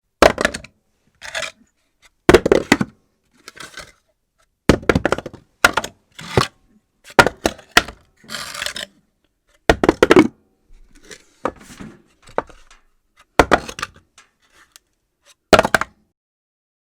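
Objects dropped one after another onto a hard floor at irregular intervals: a dozen or so sharp knocks, some trailing into a short clatter or rattle as the item bounces and settles.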